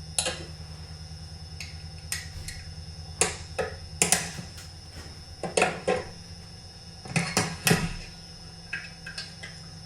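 Metal tools and chainsaw parts handled on a workbench: scattered clicks and knocks, several close together about four seconds in and again near seven seconds, over a steady low hum.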